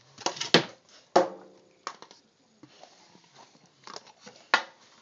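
A dog playing tug of war: a series of short, sharp scuffling bursts, about six in all, the loudest in the first second or so.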